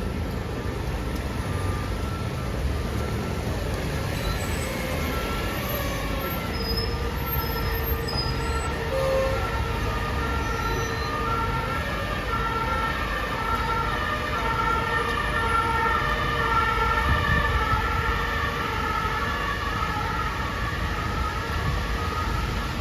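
Two-tone emergency-vehicle siren alternating between two pitches, growing louder toward the middle and latter part, over a steady bed of street traffic noise.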